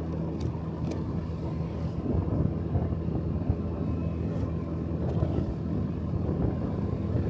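Small motorcycle engine running while riding, with road noise; its steady note turns rougher and a little louder from about two seconds in.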